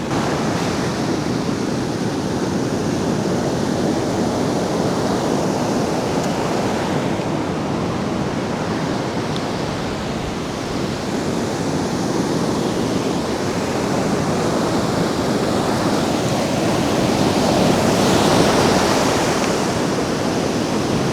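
Rough monsoon sea surf washing onto the beach, a steady rush of breaking waves that swells louder near the end.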